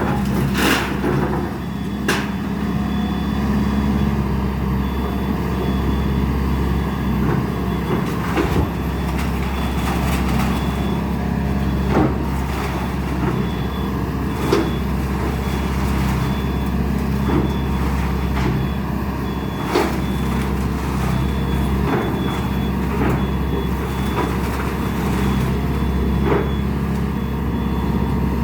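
Excavator's diesel engine running steadily while it demolishes a house, with scattered cracks and knocks from the breaking building. A faint high beep repeats at an even pace from about a third of the way in.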